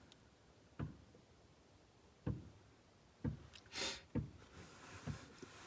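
A few soft knocks and thumps, spaced about a second apart, with a short breathy hiss a little past the middle.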